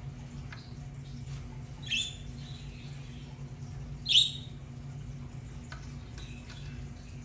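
Budgerigars chirping: two short, sharp calls about two seconds in and again just after four seconds, the second the louder, with faint scattered clicks and a steady low hum underneath.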